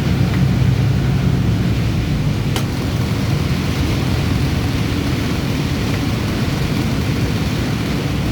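City bus's engine running as the bus drives, a steady low drone with road noise over it and a faint click about two and a half seconds in.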